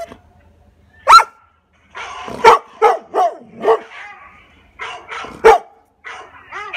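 A dog barking: a single bark about a second in, then a quick run of four barks, and more barks after a short pause.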